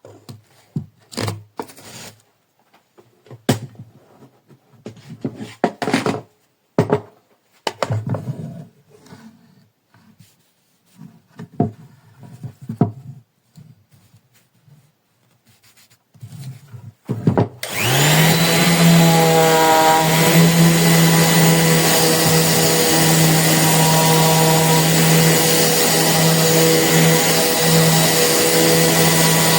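Scattered clicks and knocks of handling, then, about two-thirds of the way in, a corded 450 W random orbital sander switches on and runs steadily with a constant motor hum.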